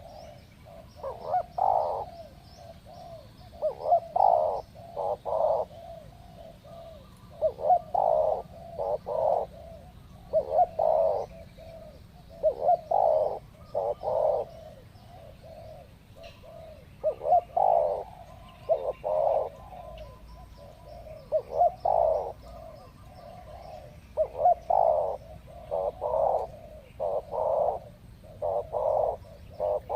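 Spotted doves cooing, repeated phrases of two or three coo notes coming every few seconds.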